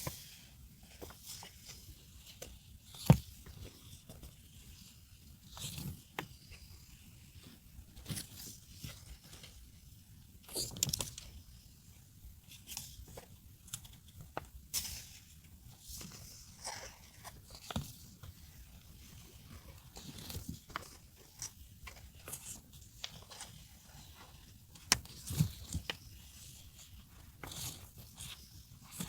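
Paper stationery being handled by hand: scattered rustling, crinkling and peeling of paper and sticker sheets, with a sharp knock about three seconds in and two more near the end.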